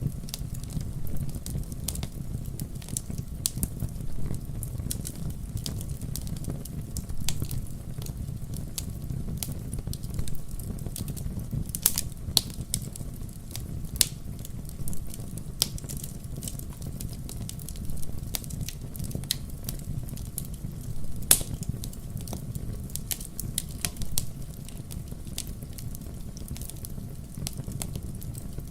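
Fire in a fireplace crackling, with frequent sharp pops over the steady low rumble of the flames; one pop about three quarters of the way through is louder than the rest.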